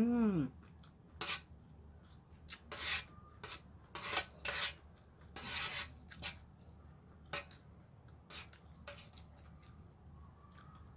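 Eating utensils scraping and clinking against a salad basin in a string of short scrapes, as the last of the salad is gathered up. A short hummed voice sound rises and falls right at the start.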